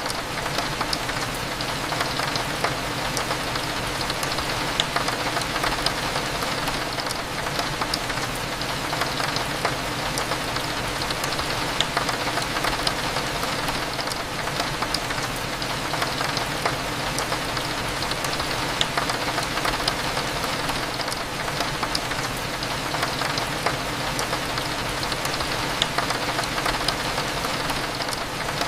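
Steady rain pattering on a window, a dense spread of fine drop ticks over a constant low hum of cafe background.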